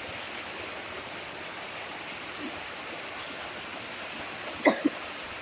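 Heavy rain falling steadily, an even hiss. A single short, sharp high-pitched sound cuts through it about four and a half seconds in.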